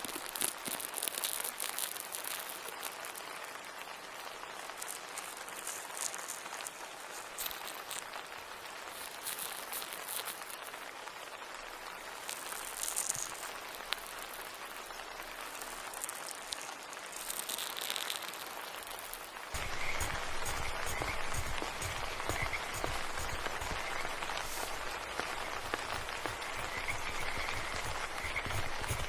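Steady ambient white-noise soundscape, an even hiss with faint scattered ticks; about two-thirds of the way through it cuts abruptly to a louder, fuller ambience with more low rumble and faint repeated high calls.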